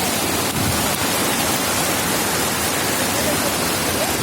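Heavy monsoon rain pouring down as a steady, even hiss.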